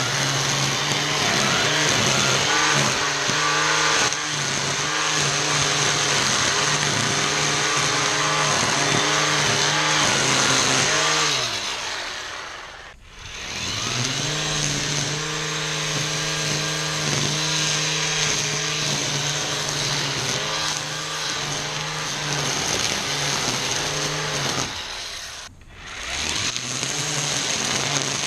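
ECHO 58-volt battery string trimmer running at full speed with a steady motor hum, its line cutting through tall weeds and grass. About halfway through the trigger is let off: the motor winds down to a stop and then spins back up. Near the end it cuts out briefly and spins up again.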